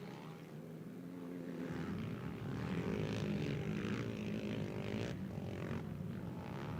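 Racing ATV (quad bike) engines running at speed on the motocross track, a wavering engine drone that grows a little louder over the first few seconds.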